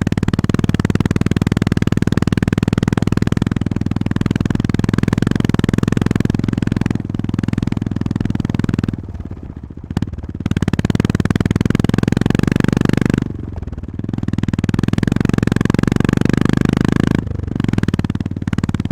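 Honda GB350S single-cylinder engine running under way, its exhaust beat a dense, fast thudding. The engine note drops off for a moment three times, about nine seconds in, around thirteen seconds and near the end, as the throttle is eased off, then picks back up.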